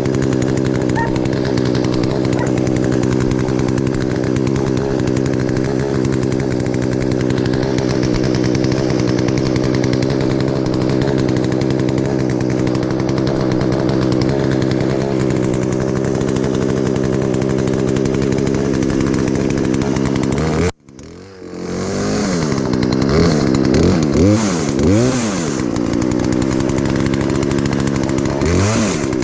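Two-stroke gas chainsaw running steadily at high speed. About 21 seconds in, the sound cuts out abruptly. The saw then revs up and down several times before settling back into a steady run.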